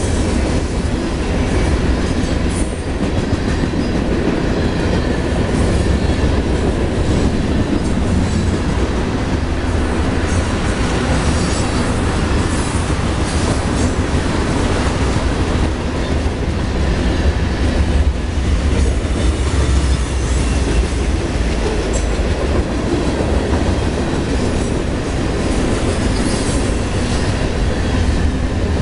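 Freight train of mixed cars (boxcars, tank cars, covered hoppers) rolling past close by: a steady rumble of steel wheels on rail, with scattered clicks as the wheels pass over the rail joints.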